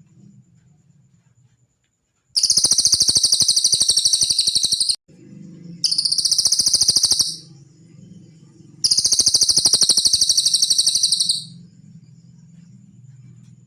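Cililin bird singing three long, very fast, high-pitched trills with short pauses between them, over a faint steady low hum.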